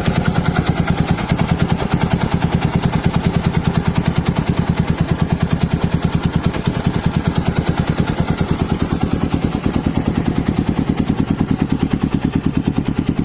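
Motorcycle engine idling through an SXperformance aftermarket exhaust: a steady, even stream of exhaust pulses held at one speed, with no revving.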